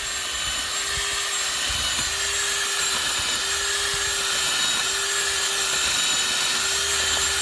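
Power drill running at full speed with a Vevor garden auger bit boring into soil: a steady whine that wavers slightly in pitch as the auger is worked up and down.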